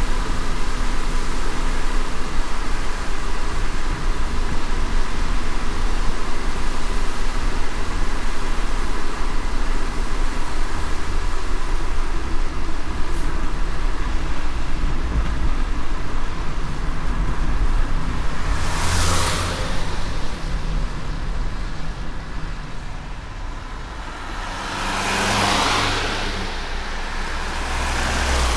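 Car driving in light rain on a wet road: steady low road rumble under a hiss of tyres and rain. Two brief swelling whooshes come about two-thirds of the way through and again near the end.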